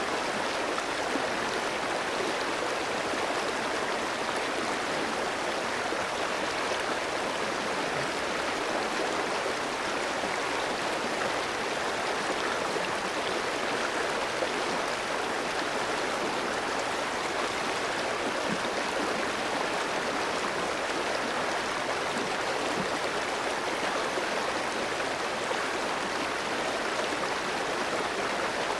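Clear mountain stream flowing over rocks, a steady rushing and gurgling of water.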